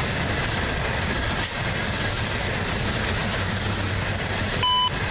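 Freight train's coal cars rolling steadily past on the rails, their wheels and car bodies making a continuous rumble. A short electronic beep cuts in near the end.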